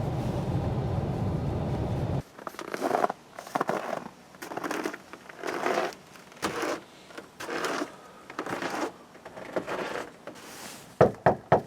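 A steady noise for about two seconds, then footsteps at a walking pace, and three quick sharp knocks near the end, like knocking on a door.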